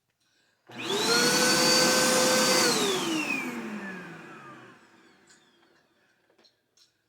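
Vacuum cleaner switched on, its motor whine rising quickly to a steady pitch, running for about two seconds, then switched off and winding down with a falling whine over a couple of seconds.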